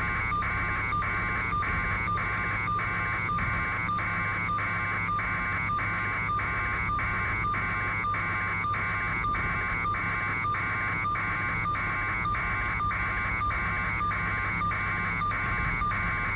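An electronic buzz pulsing evenly, about three times a second, over a steady low hum, like interference or a signal tone on a radio or telephone audio line.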